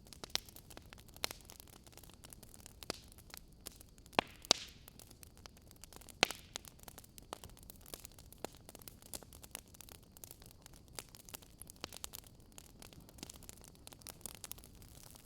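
Wood fire crackling: irregular sharp pops and snaps, a few louder ones about four to six seconds in, over a faint steady hiss.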